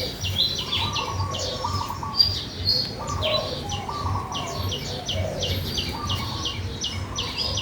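Several birds chirping in quick succession, a dense run of high chirps with lower, slurred calls mixed in.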